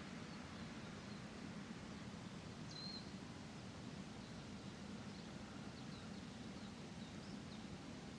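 Faint outdoor park ambience: a steady low background rumble with small birds chirping, one clearer call about three seconds in and several short, high chirps in the second half.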